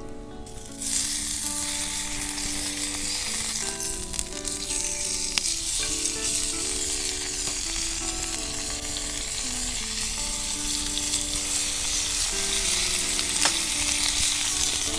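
Meat sizzling as it fries over a fire, the sizzle starting about a second in, with a couple of sharp pops. Soft background music with a slow melody plays underneath.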